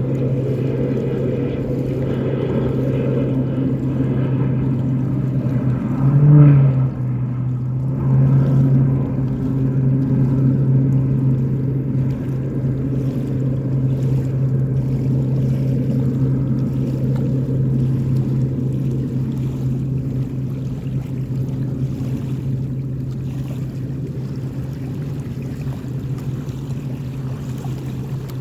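Air Tractor 802F Fire Boss turboprop engine and propeller droning steadily, with a short louder swell about six seconds in and a gradual fade near the end.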